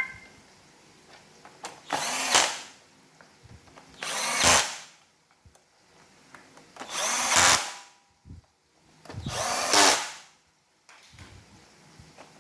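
An iRobot Roomba's motor whirring in four short bursts about two to three seconds apart. Each burst spins up and then dies away, the motor being run after reassembly to check that it works.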